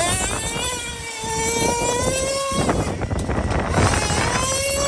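Traxxas Revo 3.3 nitro RC truck's small two-stroke glow engine revving at high speed: it winds up, holds a high whine that slowly rises for about two seconds, drops off, then winds up again near the end.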